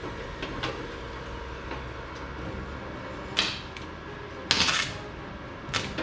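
A few sharp knocks and clatters of hard objects being handled, the loudest a half-second rattle about four and a half seconds in, over a steady low hum.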